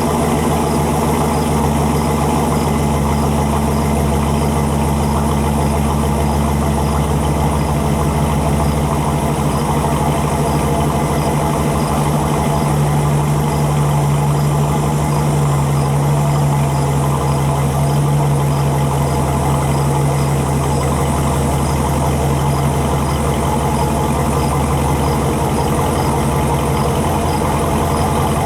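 2019 Ram 1500 pickup's engine idling steadily through its exhaust, the idle note swelling slightly for several seconds in the middle.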